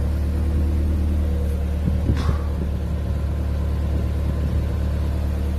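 Audi S3 8L's 1.8-litre turbocharged four-cylinder BAM engine idling steadily through an aftermarket Milltek exhaust, a low even rumble. A brief faint higher-pitched sound comes about two seconds in.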